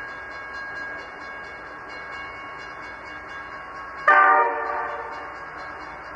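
A diesel locomotive hauling a container freight train approaches with its engine running steadily. About four seconds in it gives one short, loud blast of its chime horn, which rings out over the next second.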